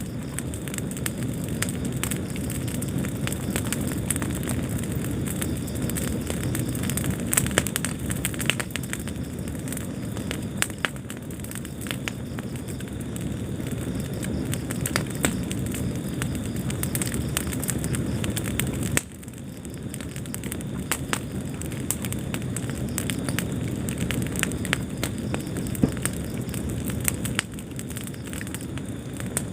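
Wood fire burning in a fireplace: a steady low rumble of flames with frequent sharp crackles and pops. The rumble drops suddenly about two-thirds of the way through, then builds back up.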